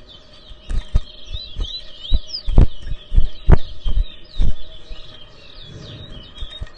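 Towa-towa seed finches singing in competition: a dense run of quick, high chirping and whistled notes. Sharp knocks, the loudest sounds, come in a cluster from about one to four and a half seconds in.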